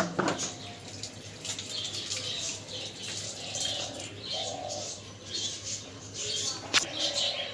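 Birds calling on and off in short flat-pitched calls, with a sharp knock at the start and another shortly before the end.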